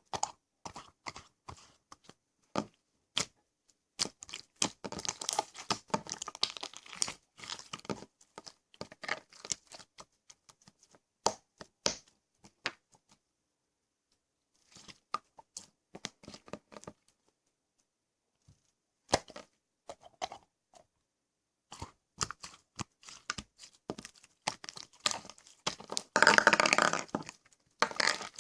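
Slime being squished and stretched by hand, making scattered sharp clicks and crackling air-bubble pops. There are quiet gaps in the middle, and a louder, denser run of crackling near the end.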